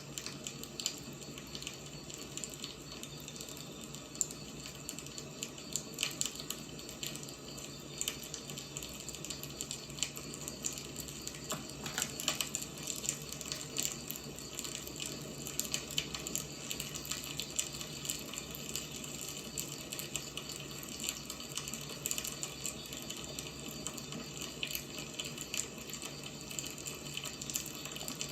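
Firewood burning, a steady hiss with frequent small crackles and pops.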